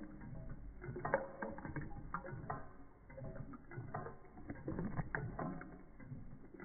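Model Stirling hot-air engine running and driving a small model pump, with irregular mechanical clicking and clattering from the moving linkages.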